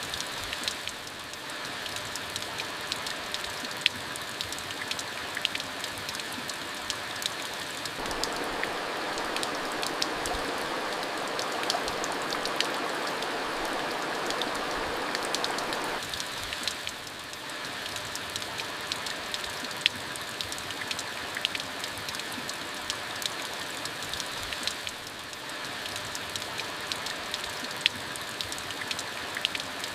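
Steady rain falling, an even hiss with scattered sharp drop hits. The rain gets abruptly louder about eight seconds in and drops back just as suddenly about halfway through.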